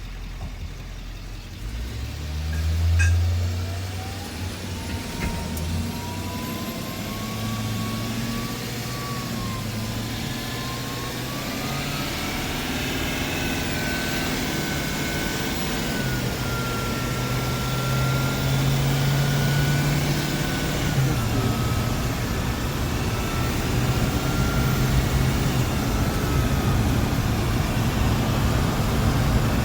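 Bus engine pulling away: it speeds up about two to four seconds in, then runs steadily at road speed with a whine that rises in pitch and holds. The overall noise grows gradually louder.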